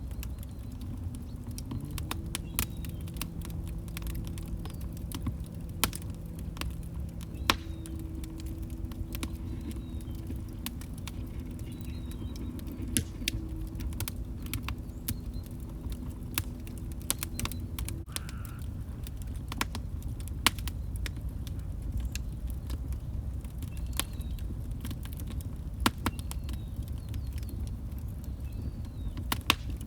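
Wood fire crackling in a fireplace: a low rumble of flames with frequent sharp pops and snaps at irregular intervals, a few louder than the rest. A faint low hum sits under it from about two seconds in until a little past halfway.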